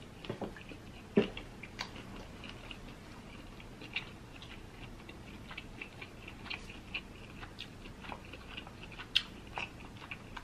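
A person chewing seafood close to the microphone: soft, scattered mouth clicks and small wet smacks, with sharper clicks about a second in and again near nine seconds.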